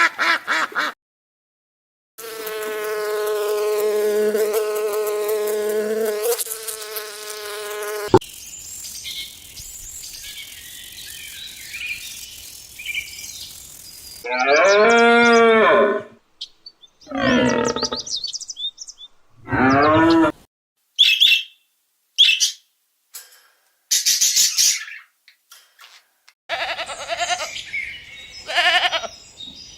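A string of different animal calls, one after another. First comes a steady pitched drone lasting about six seconds, then scattered chirps. After that come several loud calls of a second or two each that bend in pitch, short high chirps, and more calls near the end.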